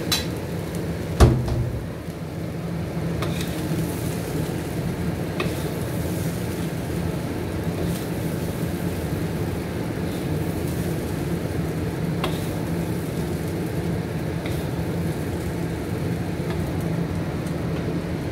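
Chickpeas frying in a wok with a steady sizzle, a sharp knock about a second in and a few light clicks as a wooden spatula stirs them and scoops them onto a plate.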